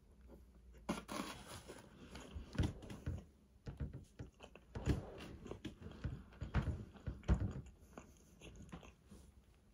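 Close-miked eating sounds: a person chewing and biting fried food, with a run of irregular mouth clicks and smacks starting about a second in.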